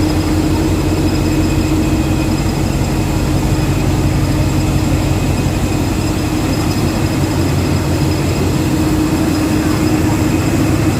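A heavy engine idling: a steady low hum with a thin, constant high whine over it.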